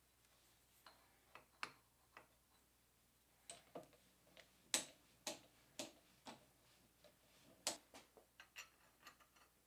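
About twenty light, irregular clicks and taps of metal parts being handled, the loudest about five seconds in and near eight seconds. No machine is running.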